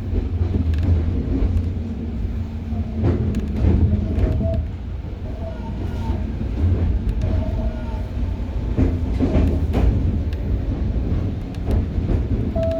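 Inside a Hokuriku Railroad 03 series trailer car under way: steady rumble of the wheels and running gear, with sharp clicks as the wheels pass over rail joints.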